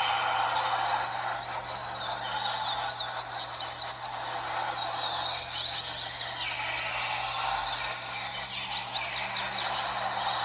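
A dense chorus of many double-collared seedeaters (coleiros) singing over one another at once, their quick, sweeping phrases overlapping without a break, over a steady background murmur.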